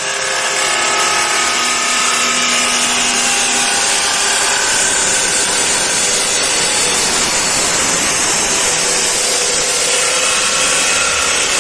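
Tiến Đạt F300 cut-off saw, a 2 HP machine with a large abrasive disc, cutting through steel with a loud, steady grinding noise.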